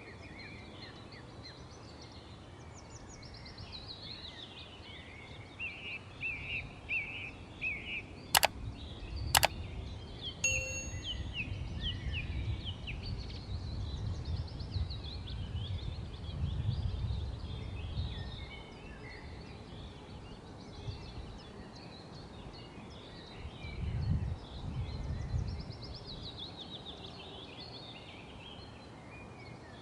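Small birds chirping and twittering throughout, with low rumbling swells now and then and two sharp clicks about a second apart near a third of the way in.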